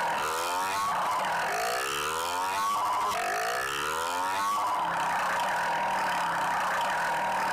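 Motorcycle engine revving, its pitch climbing in three rising sweeps over the first few seconds, then running steadily.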